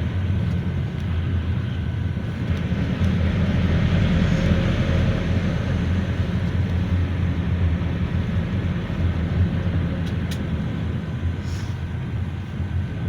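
GAZelle Next minibus on the move: a steady low engine drone with road noise, heard from inside the cabin. The noise swells slightly a few seconds in, then settles.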